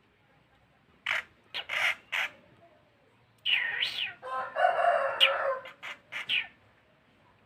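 Young long-tailed shrike calling: short, harsh calls in quick bursts, with a longer drawn-out call of about two seconds in the middle.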